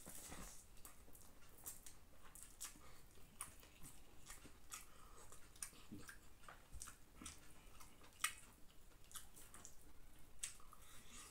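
Faint sounds of a man eating chicken biryani by hand: chewing and mouth sounds, mixed with soft squishes as his fingers gather rice from a banana leaf. Many short, irregular wet clicks, with one sharper click about eight seconds in.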